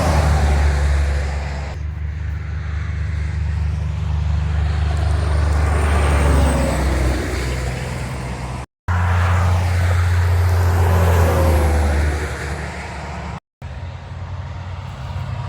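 Semi-trucks passing on the interstate: a heavy diesel engine rumble and tyre-on-road noise swelling and fading as each rig goes by. The sound drops out abruptly twice for a split second.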